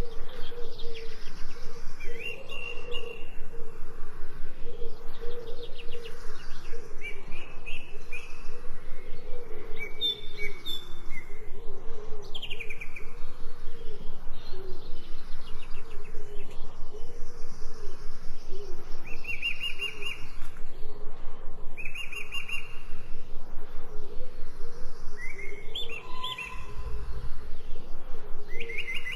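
Birds chirping in short repeated phrases and trills, over a fast, even pulsing sound underneath.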